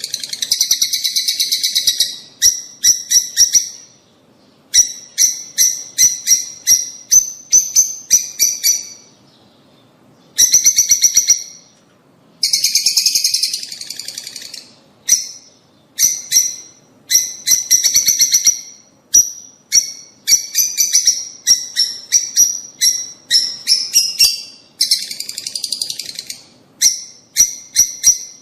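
Lovebirds calling: loud, high-pitched chirps in rapid runs and bursts, with short pauses between them and a few longer stretches of unbroken chattering.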